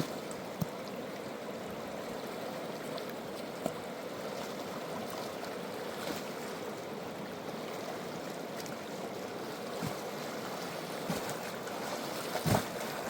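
River water rushing steadily, with a few short knocks and a louder thump near the end.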